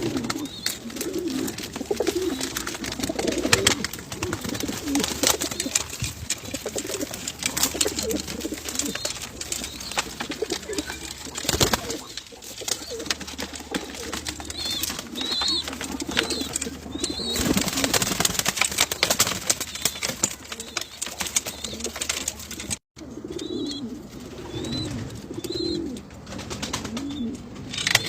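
Homing pigeons cooing repeatedly in low rolling phrases, with frequent short knocks and clatter among the birds and thin high chirps now and then. The sound drops out for an instant about 23 seconds in.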